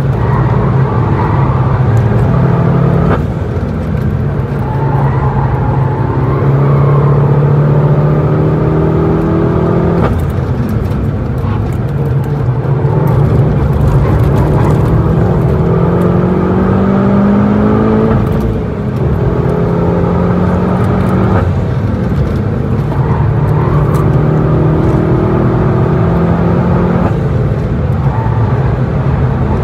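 VW Golf GTI Clubsport S's turbocharged 2.0-litre four-cylinder heard from inside the cabin at track pace, revs climbing in pull after pull and dropping back at each gearchange, with an easing-off for a slow corner partway through. Tyre and road noise run under the engine.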